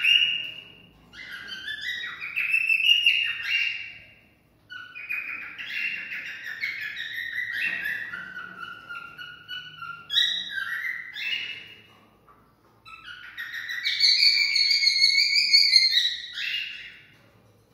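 Cockatiel whistling a warbling song in three phrases, broken by short pauses about four and a half seconds in and about twelve and a half seconds in. It stops just before the end.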